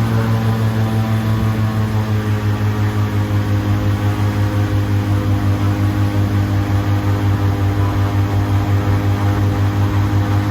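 Airboat's engine and air propeller running steadily, heard from on board: a loud, deep drone with a fast, even pulsing beat, settling slightly lower in pitch in the first couple of seconds.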